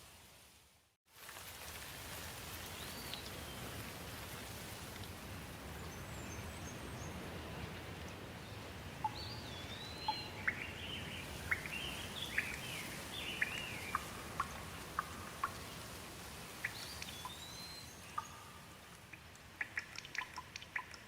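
Steady rain falling, with birds calling over it in short whistled and chirping notes, most busily in the middle. The sound cuts out for a moment about a second in. Near the end the rain thins and separate drops can be heard dripping.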